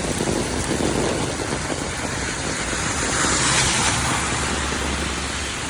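Steady heavy rain, with a car passing on the wet road about three seconds in: a tyre hiss that swells and fades, over a low rumble.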